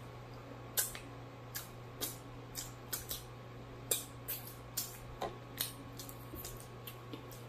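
Close-up open-mouthed chewing of fried food: wet mouth smacks and clicks, irregular, about two a second.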